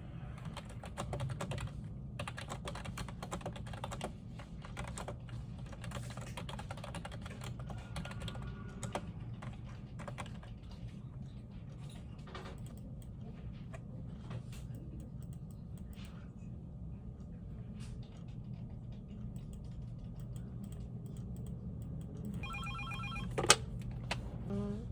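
Computer keyboard typing, dense for the first several seconds and then sparser, over a steady low hum. Near the end a desk telephone rings with a rapid pulsed tone, cut by a sharp click.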